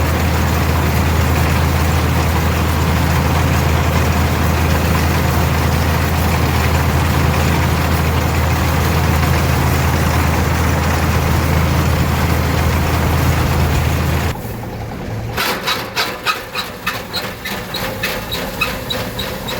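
Tractor and pull-type combine running steadily with a deep engine drone. About fourteen seconds in, the drone stops abruptly, leaving a quieter run of rapid, evenly spaced clicks, about four a second, that thin out toward the end.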